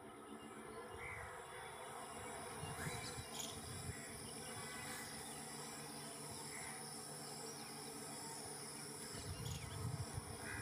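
Steady high-pitched drone of insects such as crickets, with a few short chirps scattered through it. A low rumble swells in near the end.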